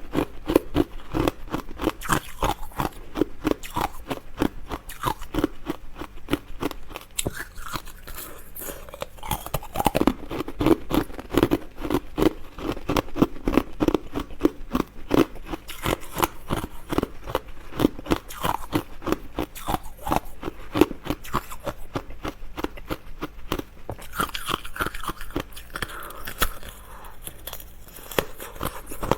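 Close-miked chewing of crunchy food: a steady stream of fast, irregular crunches and bites with wet mouth sounds.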